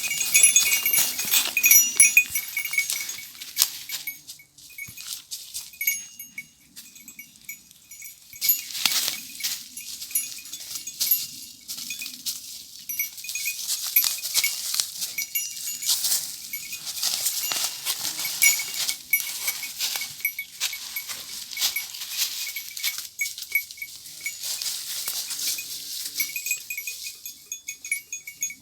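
Goat herd with neck bells clinking irregularly as the animals move and graze, over a steady rustling.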